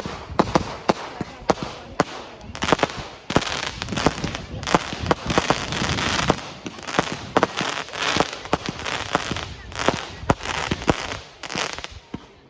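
Fireworks going off: a rapid series of sharp bangs and crackles, densest in the middle and thinning out near the end.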